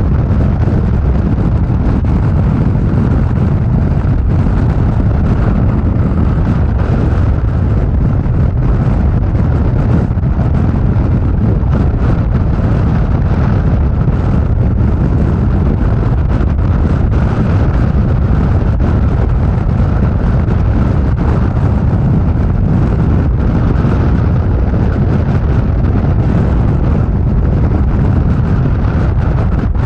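Harley-Davidson motorcycle riding at freeway speed: steady, loud wind rush buffeting the microphone over engine and road noise.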